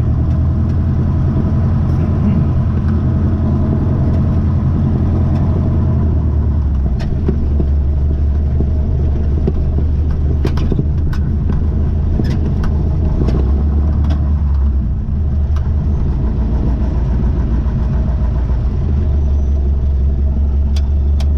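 A vehicle engine running steadily: a loud, low drone that shifts its tone a few times, with scattered clicks partway through.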